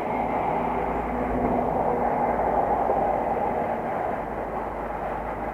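A motor vehicle's engine hum with a steady rushing noise, swelling slightly in the middle and easing off toward the end.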